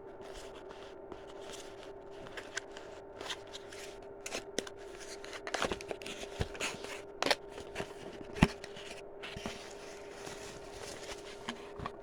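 Small objects being handled: irregular rustling and light clicks, busiest in the middle, with one sharper click about eight seconds in, over a steady faint hum.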